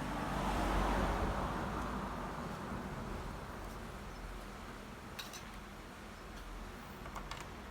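A road vehicle passing by, its noise swelling about a second in and then slowly fading away, with a couple of faint clinks near the end.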